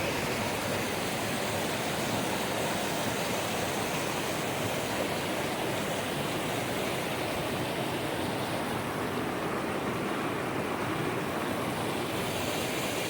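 Steady, even rushing noise outdoors with no breaks or distinct events.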